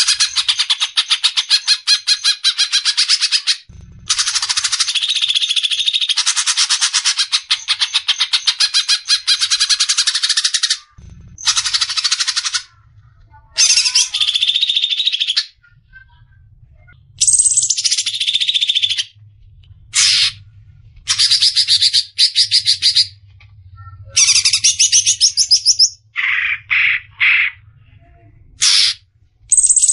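Green leafbird (cucak ijo) singing its 'besetan', the fast, shrill bird-keepers' song of rapid trilling runs. Long runs come first, then shorter broken phrases in the second half.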